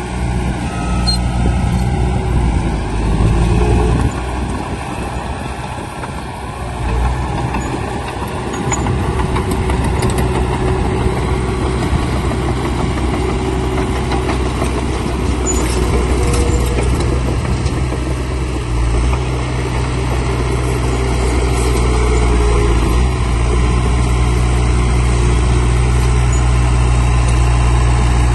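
Heavy diesel engine of earthmoving machinery running steadily under load, easing off briefly about five seconds in and then running on evenly.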